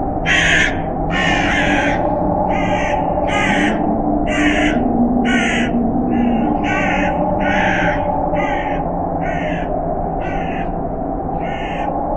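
Crows cawing, about a dozen separate caws coming roughly once a second, over a steady low droning background.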